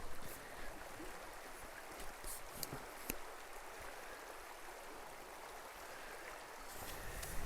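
Small forest stream tinkling along: a soft, steady rush of running water, with a few faint clicks about two to three seconds in.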